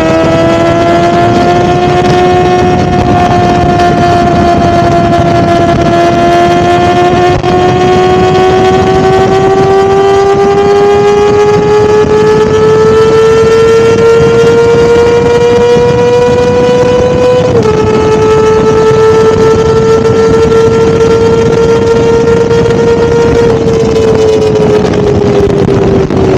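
Kawasaki ZX-4RR's 399 cc inline-four engine running at high revs with a high-pitched note. The pitch climbs slowly for about 17 seconds, drops abruptly in one step, holds steady, then falls away near the end.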